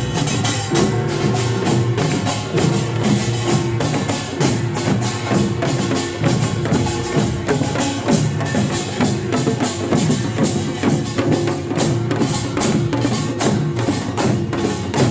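Korean pungmul percussion band playing: dense, rapid strikes of small kkwaenggwari gongs over janggu hourglass drums and buk barrel drums, with a held tone running through that drops out now and then.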